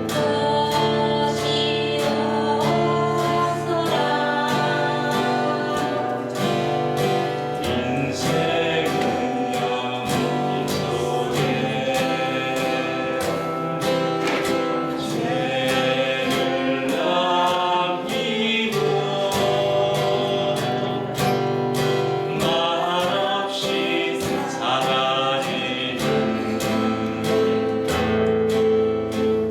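Two voices singing a slow Korean folk song to steady acoustic guitar strumming.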